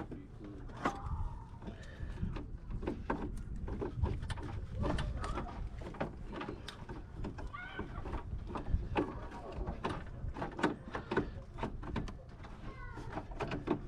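Irregular clicks and knocks over a low steady rumble, with a few brief faint calls or voices.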